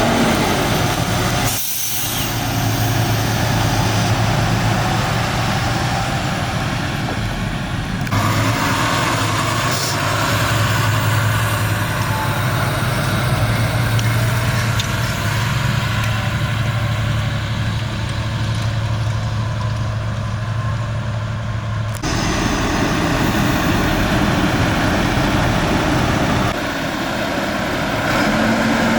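Fendt 930 Vario tractor's six-cylinder diesel running steadily under load, a continuous low drone. The sound changes abruptly a few times, as between separate takes.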